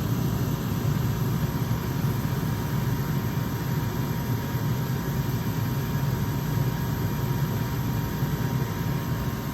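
Gas furnace running, its burners firing and draft fan turning: a steady low rumble and rush that holds even throughout.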